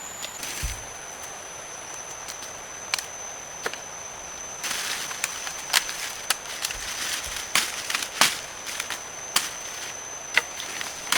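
Irregular sharp knocks and cracks of wood being chopped by hand, with a brief rustle about halfway, over a steady high-pitched insect drone.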